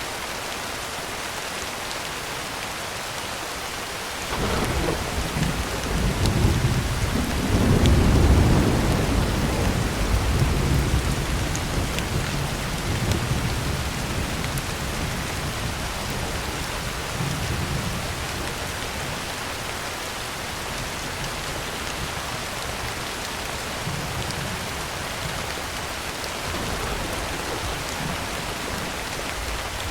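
Steady heavy rain on a tin roof, with a roll of thunder that breaks in about four seconds in, is loudest a few seconds later, and rumbles away over the next ten seconds or so.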